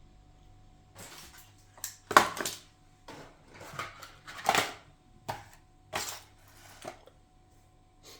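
Objects being handled: a run of clatters and knocks over about six seconds, loudest about two seconds in.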